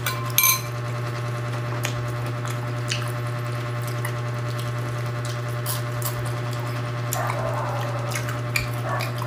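Close-up eating sounds: chewing and wet mouth clicks over a steady low hum. A spoon taps once against a ceramic bowl with a short ring just after the start.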